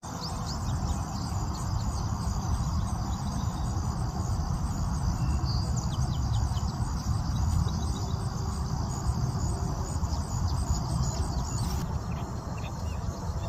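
Crickets chirring steadily in a high, continuous band with scattered short high chirps, over a steady low rumble.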